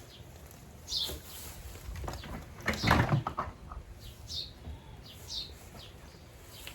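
Small birds chirping in short downward-sweeping calls several times, with a short burst of knocks and clatter about three seconds in.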